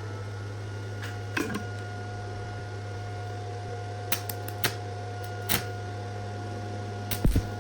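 A steady machine hum with a few scattered sharp clicks and knocks, and a louder cluster of knocks near the end.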